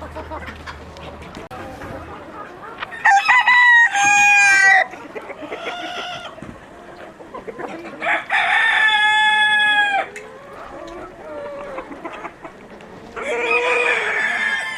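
Roosters crowing three times, each crow lasting one to two seconds, with hens clucking softly between the crows.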